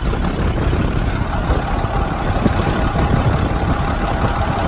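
International DT466 inline-six turbo diesel in a 2004 International 4300 truck idling steadily and smoothly, with no knocking; a faint steady whine joins about a second and a half in.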